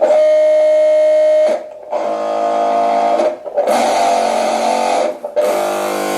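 Small vibration motors on a DIY contact-miked wok instrument (an "e-wok"), amplified through its contact mics, switched on one after another. The result is about four buzzy drones of roughly a second and a half each, broken by short gaps, each with a different pitch and grain.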